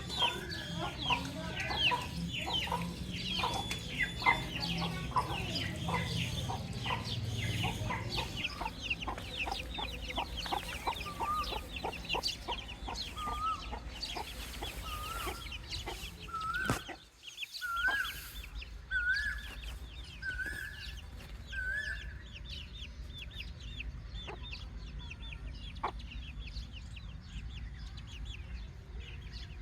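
A brood of baby chicks peeping: a dense chorus of short, high, falling peeps. From about a third of the way in, one louder call repeats about once a second, its pitch climbing a little each time. The sound drops out for a moment just past halfway, and the peeping is sparser afterwards.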